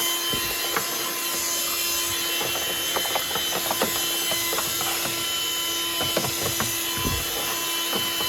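Black & Decker Dustbuster handheld vacuum running steadily with a high whine, with frequent small clicks and knocks as the nozzle and loose grit rattle against the battery compartment.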